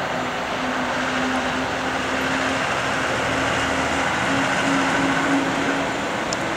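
Airliner engines running with a steady roar and a droning hum, slowly growing louder.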